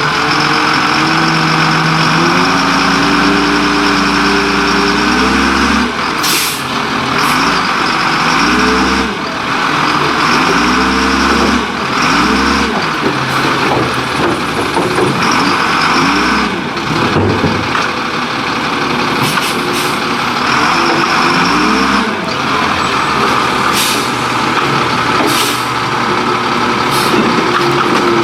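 Leach Curbtender rear-loading garbage truck working: the engine repeatedly revs up and settles back over a steady whine, with several short air hisses.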